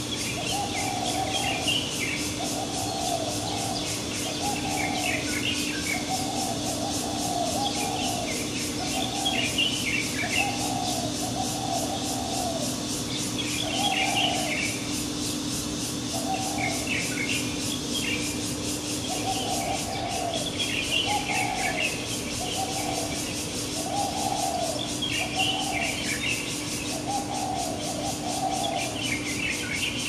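Morning birdsong: one bird repeats low, hollow cooing notes about once a second, while other birds add short bursts of higher chirps every few seconds.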